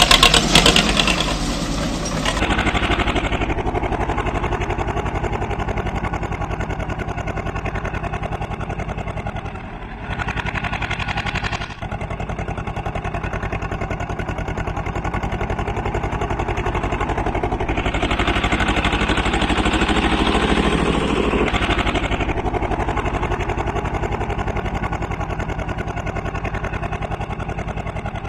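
Tractor diesel engine running steadily with even firing pulses. It is loudest in the first two seconds, swells briefly around ten seconds in, and runs louder again for a few seconds near twenty seconds.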